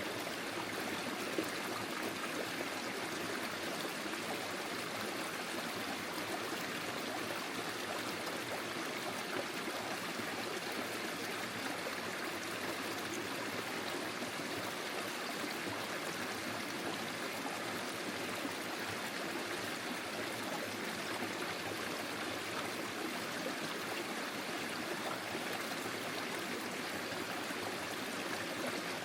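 Forest stream flowing over stones: a steady, even rush and trickle of water.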